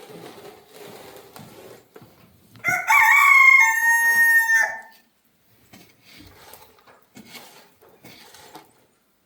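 A rooster crows once, a loud call of about two seconds starting a few seconds in, with faint scraping and shuffling noises before and after it.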